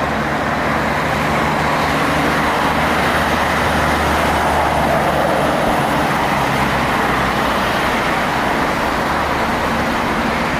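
Highway traffic with a heavy truck's diesel engine droning low under steady tyre and road noise as it drives past; the engine drone fades about halfway through.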